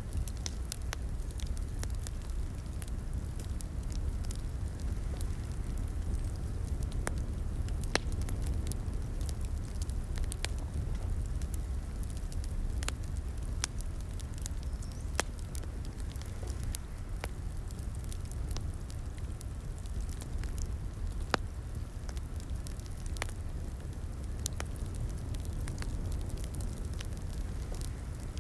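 Fire in a fireplace crackling steadily over a low rumble, with many small scattered pops and a few louder ones.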